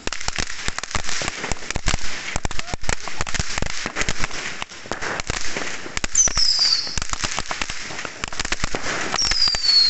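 Many fireworks and firecrackers going off at once, a dense, rapid run of bangs and crackles. A whistle falling in pitch cuts through just past the middle, and another near the end.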